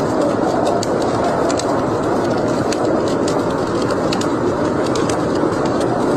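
Wood fire burning in a fireplace: a steady rushing noise with frequent irregular sharp crackles and pops.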